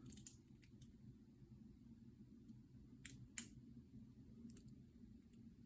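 Near silence: low room hum with a few faint clicks, the clearest two about three seconds in.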